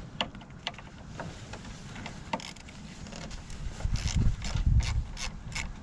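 Wrench clicking on a corroded car battery terminal clamp as it is loosened. A few separate clicks come first, then a quicker run of clicks, about three a second, with low knocks in the second half.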